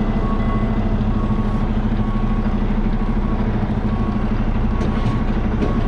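Semi truck's diesel engine running steadily at low revs, a heavy drone, while the truck is manoeuvred to hook up a trailer. A short electronic beep repeats about twice a second over it.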